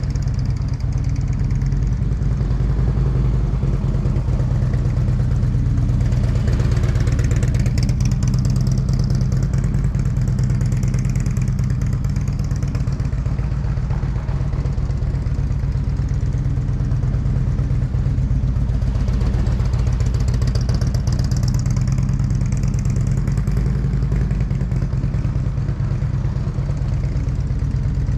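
Motorcycle engine running steadily, with a hissy swell about seven seconds in and again about twenty seconds in.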